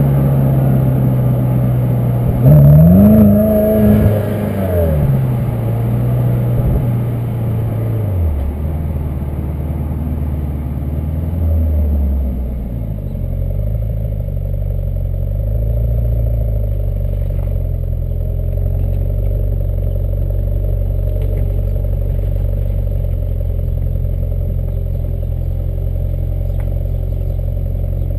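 BMW X6 M (E71) 4.4-litre twin-turbo V8 and exhaust revving sharply once a few seconds in, holding briefly and falling back. It then settles into steady low running for the rest.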